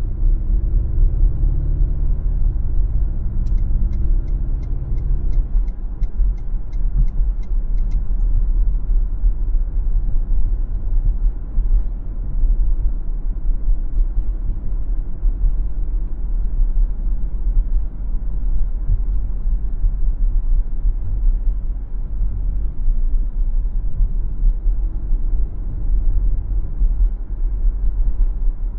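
Car driving on a city street, recorded from inside: a steady low road and engine rumble. An engine hum is layered on top for the first few seconds and drops away at about five and a half seconds. A quick, regular ticking, about two to three ticks a second, runs from about three and a half to eight seconds in.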